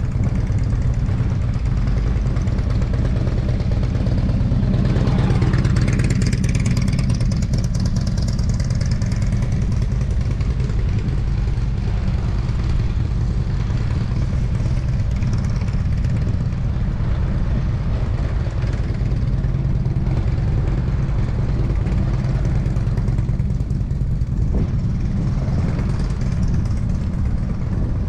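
Motorcycle engine running steadily, with a brief rise in revs about five seconds in.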